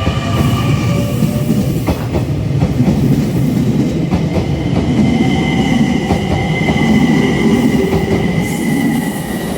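JR Kyushu 885 series electric express train running by, with heavy rail rumble and a few clicks of wheels over rail joints. Steady high-pitched wheel squeal sets in about four seconds in.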